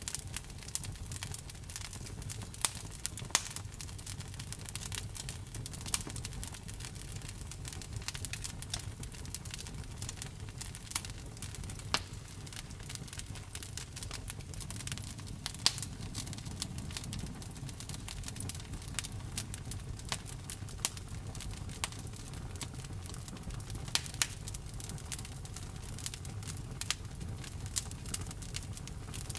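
Wood fire burning, with irregular sharp pops and crackles of the burning wood over a steady low rumble of the flames.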